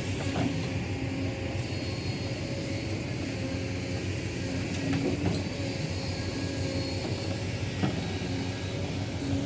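Heavy diesel earth-moving machinery running steadily, with a few sharp metallic knocks and steady whining tones of the kind crawler tracks and hydraulics make.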